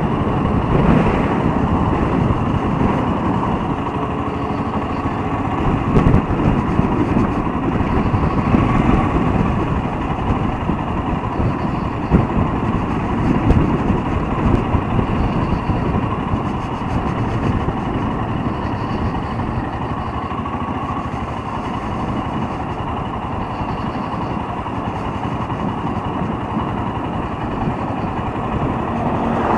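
Royal Enfield Himalayan motorcycle on the move, its engine running under a steady rush of wind on the microphone.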